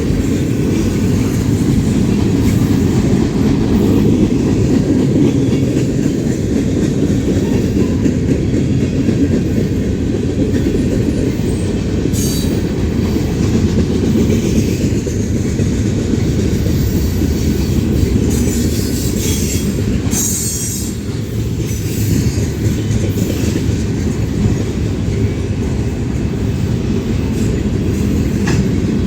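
Railroad cars rolling past with a steady low rumble and wheel clatter, and a few brief high-pitched wheel squeals about twelve seconds in and again around twenty seconds in.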